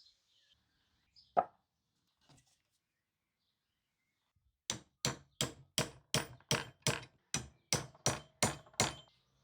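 Hammering: a single sharp knock, then a steady run of about a dozen blows at about three a second, each ringing briefly.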